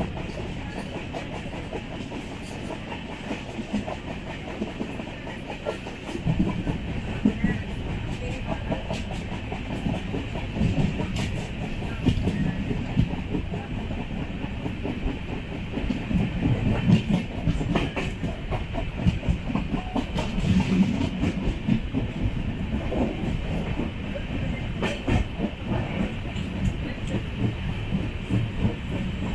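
Express passenger train running, its wheels clicking over rail joints with a continuous rumble that grows louder about six seconds in.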